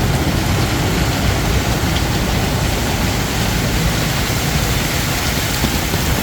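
Steady rain mixed with the engines of road traffic, largely idling in congestion.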